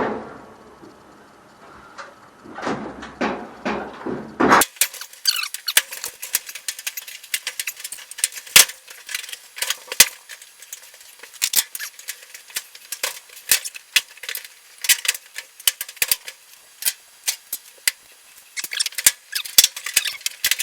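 Dryer front panel being worked back into place by hand: a long run of sharp clicks, scrapes and squeaks, denser and brighter from about four seconds in.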